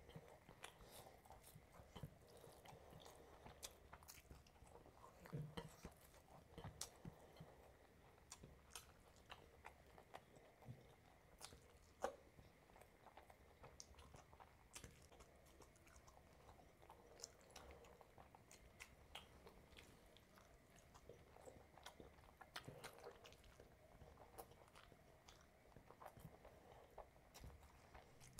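Faint, close-miked eating sounds of a man eating rice and curry with his hand: soft wet chewing and lip smacks with many scattered sharp mouth clicks, one louder click about halfway through.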